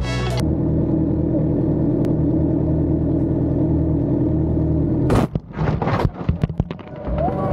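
A motor vehicle engine runs steadily for about five seconds, then a quick run of loud bangs and clattering strikes, typical of a crash impact.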